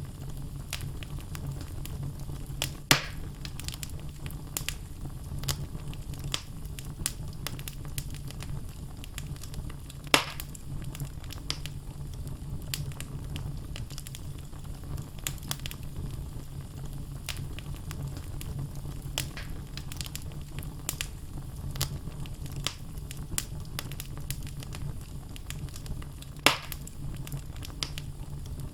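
Wood fire burning in a fireplace: a steady low rumble of flames with constant small crackles from the logs and three louder pops, about three, ten and twenty-six seconds in.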